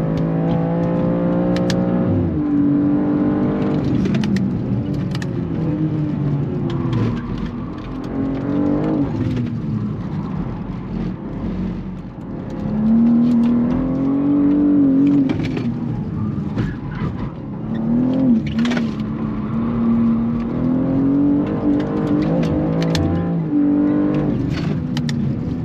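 BMW G87 M2's twin-turbo straight-six heard inside the cabin at track pace. The engine revs rise through the gears, drop sharply at each upshift, fall away under braking and climb again out of the corners.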